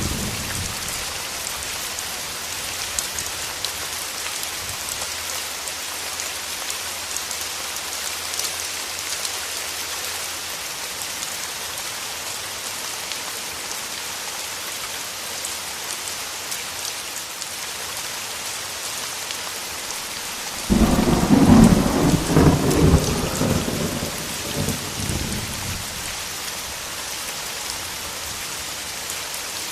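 Steady heavy rain, with a sudden loud roll of thunder about two-thirds of the way in that rumbles for several seconds and dies away.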